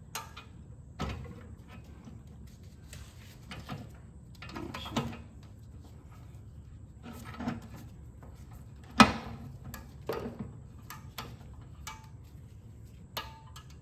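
Irregular metal knocks and clinks of tools against a mower deck spindle hub while working to drive out its bearing. One sharp strike about nine seconds in is the loudest, and a couple of the later knocks ring briefly.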